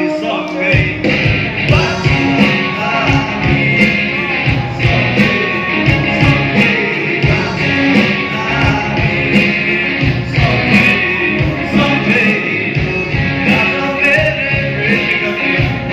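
A male singer performing a rock song with a band, over a steady drum beat.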